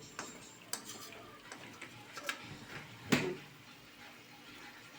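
A cooking utensil knocking and scraping against a cooking pan, a few scattered clinks with one louder knock about three seconds in.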